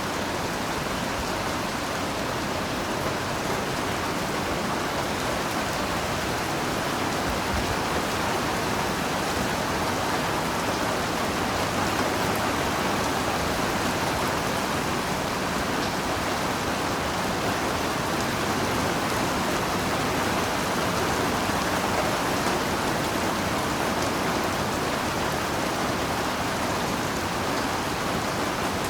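Heavy rain falling steadily, a dense even hiss of drops with no breaks or thunder.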